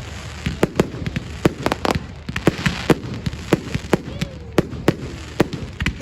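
Fireworks display: a steady run of sharp bangs and cracks from exploding aerial shells, about two to three a second at irregular intervals.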